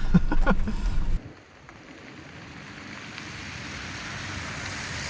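Low rumble of a truck driving on a rough back road, cut off abruptly about a second in, followed by a steady hiss that slowly grows louder.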